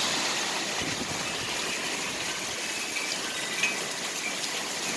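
Heavy rain pouring down in a steady hiss, with water gushing.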